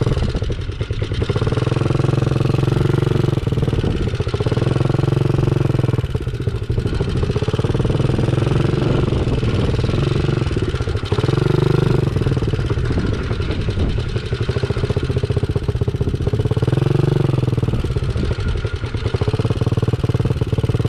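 Small dirt bike engine running loud and close, revving up and easing off again every few seconds as it rides a track.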